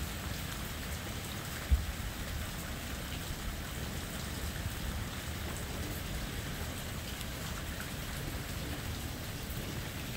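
Heavy rain falling steadily, with a single sharp low thump a little under two seconds in.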